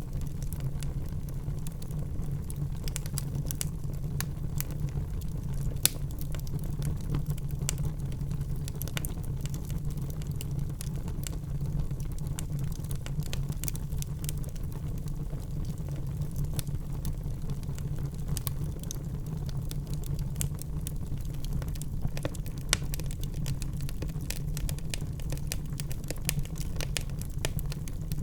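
Wood fire burning in a fireplace: a steady low rumble of flames with frequent irregular crackles and pops of burning logs, one sharper pop about six seconds in.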